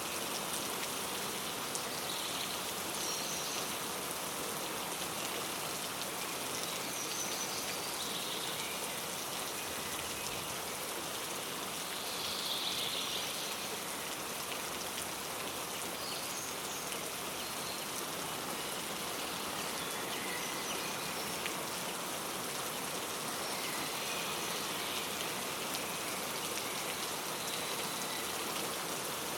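Steady rain falling, with birds chirping now and then over it.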